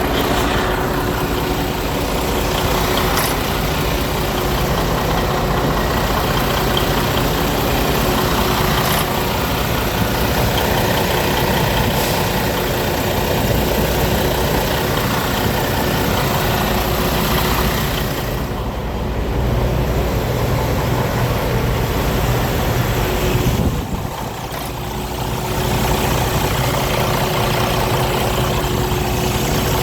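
Semi truck's diesel engine idling steadily, with a constant hum; the sound dips briefly twice in the second half.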